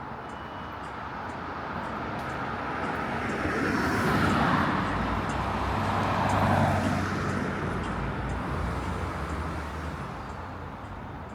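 A motor vehicle driving past, its engine and tyre noise swelling to a peak about halfway through and then fading away.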